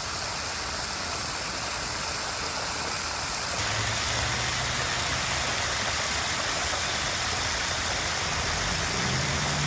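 A steady low engine-like hum over a constant rushing background noise, stepping up a little in level about three and a half seconds in.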